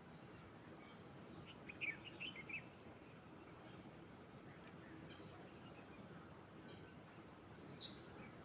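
Faint outdoor background hiss with scattered bird chirps: a quick run of short chirps about two seconds in, and a higher, falling call near the end.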